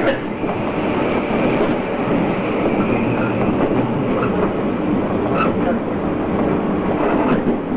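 JR East 113 series electric train running along the line, heard from on board: a steady rumble of wheels and motors with a few faint rail clicks in the second half.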